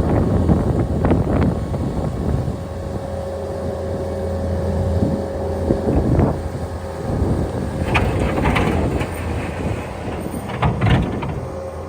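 Engine of a snow-clearing machine running steadily, with several short clanks and scrapes, the loudest about 8 seconds in and near the end.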